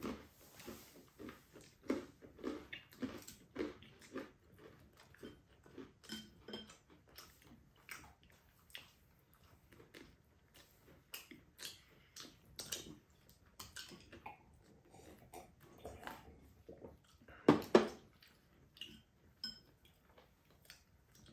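Two people eating pizza: close chewing and mouth sounds with small irregular clicks of utensils. Two louder bumps come close together late on.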